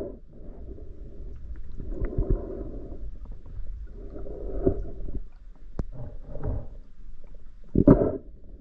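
Muffled water noise heard through a waterproof camera housing, swelling and fading in repeated surges every second or two, with a sharper thump near the end.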